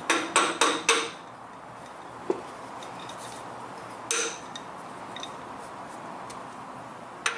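Metal hand tools clinking against each other and the oil filter housing: three quick sharp clinks in the first second, a single clink a little after two seconds, a short scrape about four seconds in, and a sharp clack near the end.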